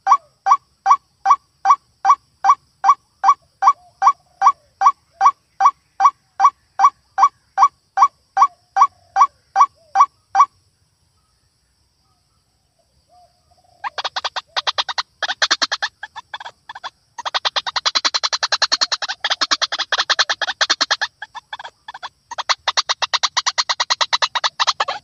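White-breasted waterhen calls: a steady series of sharp calls, about two and a half a second, for some ten seconds. After a pause of about three seconds comes a fast, dense run of chattering calls with short breaks.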